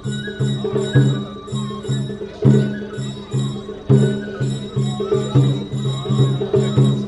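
Japanese float-festival hayashi music: drums beating a steady quick rhythm, about three strokes a second, with a melody line and ringing metal percussion over it.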